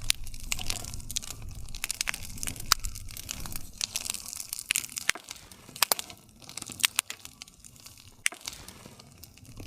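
Wood campfire crackling: irregular sharp snaps and pops of burning wood over a low rumble of flames, with one louder crack about two and a half seconds in.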